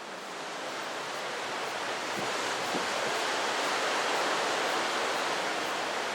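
Strong typhoon wind rushing steadily, swelling over the first few seconds and then holding.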